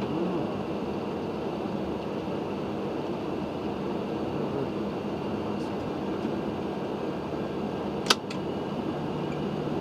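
Steady hum of a Boeing 737-800 cockpit on the ground: air conditioning and engines running at a constant level. One sharp click about eight seconds in.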